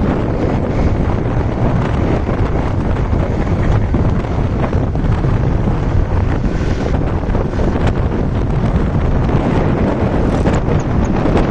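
Steady wind buffeting the microphone of a moving motorbike, with road and engine rumble blended underneath.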